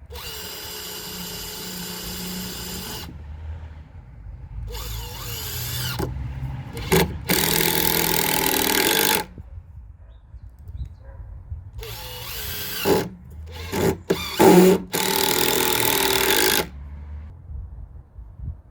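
Power drill run in about six separate bursts of one to three seconds each, starting and stopping between them.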